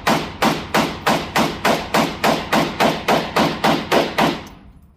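BFT 47 AK-style pistol in 7.62x39 fired semi-automatically in a rapid, even string, about three shots a second, a dozen or so shots that stop about four seconds in.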